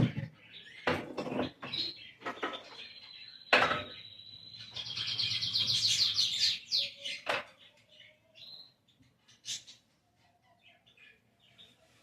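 Small birds chirping: a held high whistle, then a fast trill of repeated high notes, then scattered quieter chirps. Several sharp knocks come in the first half.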